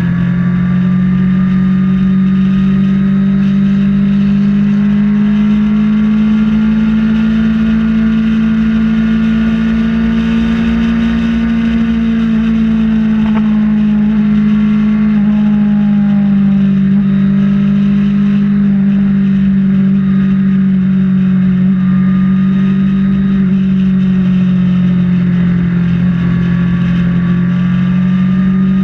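Kawasaki Ninja ZX-6R's inline-four engine running at a steady highway cruise, heard from on board. Its note holds nearly constant, drifting slightly up in pitch and then easing back about halfway through.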